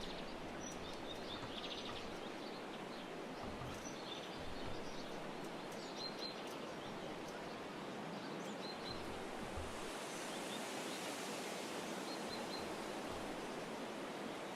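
Steady outdoor background hiss with scattered short, high bird chirps and a few soft low bumps.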